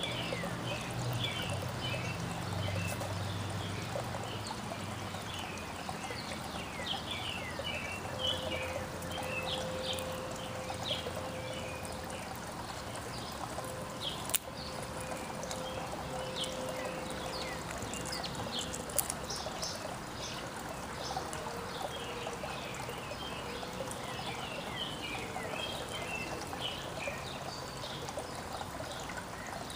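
Backyard songbirds chirping and calling over and over, many short notes, over a steady background hiss. A single sharp click about halfway through.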